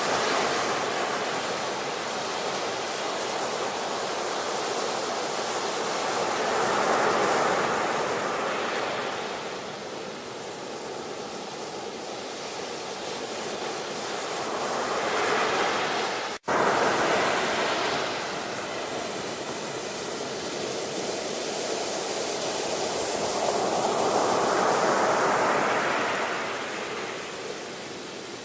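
Ocean waves surging and washing in, the noise swelling and ebbing roughly every eight to nine seconds. There is a split-second cut-out about sixteen seconds in.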